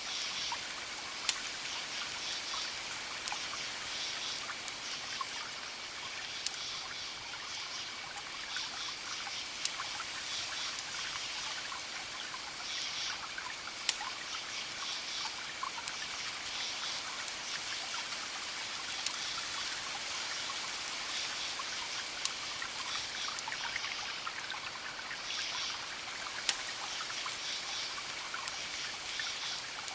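Campfire crackling, with sharp wood pops every few seconds over a steady hiss, while crickets chirp in repeated bursts and a thin steady insect trill runs beneath.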